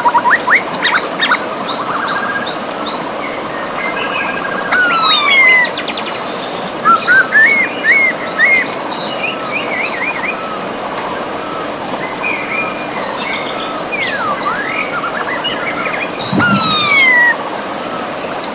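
River water rushing steadily while several birds sing over it: runs of quick repeated chirps and a few falling whistled notes, loudest about 5 seconds in and again near the end.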